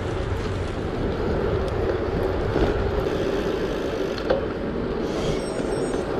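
Steady rolling and wind noise from a gravel bike being ridden on city streets, with a single sharp knock a little past four seconds in.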